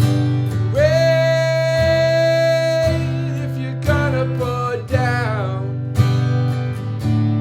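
Acoustic guitar music: a looped strummed rhythm part plays steadily. Over it, a long held melody note begins about a second in, then sliding, bending notes fall away around four to five seconds in.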